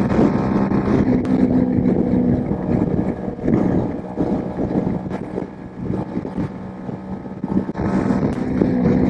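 Honda Super Cub 110's single-cylinder four-stroke engine running steadily at cruising speed, with wind rushing over the microphone.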